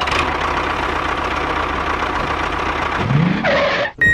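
Steady engine running sound of a miniature DIY tractor, rising briefly like a rev about three seconds in, then cutting off suddenly just before the end.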